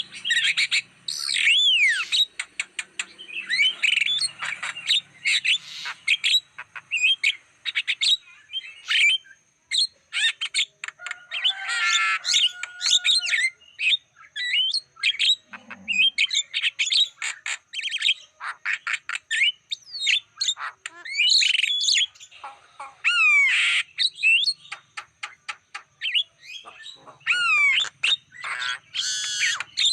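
Javan myna (jalak kebo) singing a fast, varied run of harsh squawks, chirps and rising and falling whistled notes, with hardly a pause.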